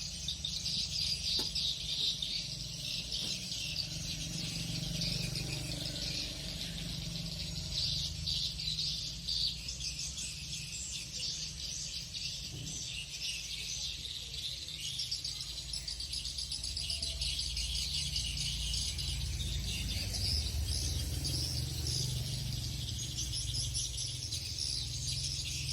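Swiftlets twittering in a dense, continuous chatter of high chirps, over a steady low rumble.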